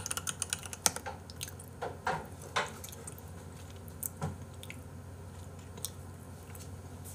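Close-miked chewing: a quick run of small wet mouth clicks in the first few seconds, then a few scattered ones.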